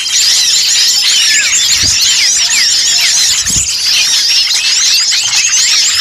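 A dense chorus of many small songbirds chirping and twittering over one another without pause: a noisy small-bird lure recording of the kind played to draw wild birds in. Two brief low thumps come about two and three and a half seconds in.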